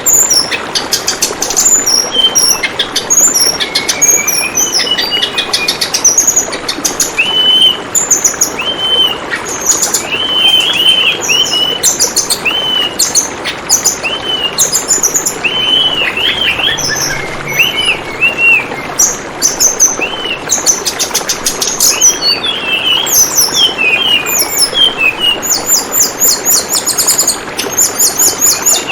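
Tledekan bambu bird singing: many short arched chirps and quick high trills, repeated all through, over the steady hiss of babbling, flowing water.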